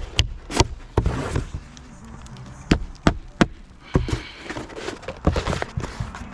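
Irregular sharp knocks and taps, about ten in six seconds, with rough scraping between them, from hand work on a shingle roof during a leak repair.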